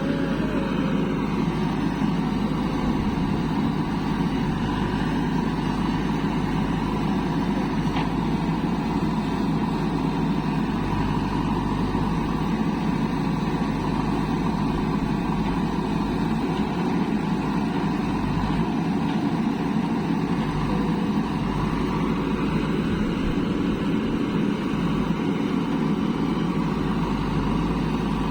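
Heavy diesel machinery running steadily, with engine pitch falling once in the first couple of seconds.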